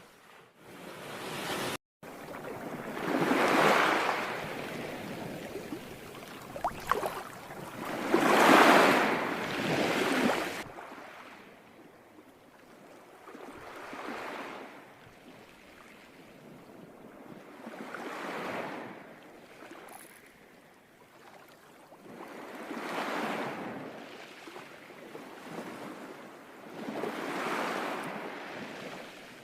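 Sea waves washing onto a shore, each swell rising and fading about every four to five seconds. There is a brief dropout about two seconds in.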